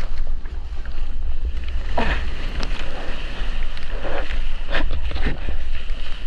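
Wind rumbling on a GoPro microphone out in the surf, with water splashing and rushing in short surges about two seconds in and several times between four and five and a half seconds.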